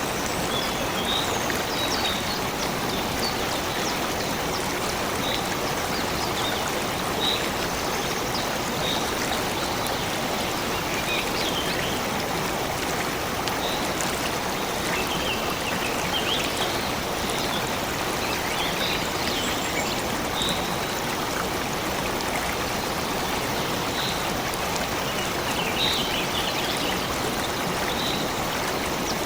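Stream water flowing and splashing steadily, with short, high bird chirps scattered throughout.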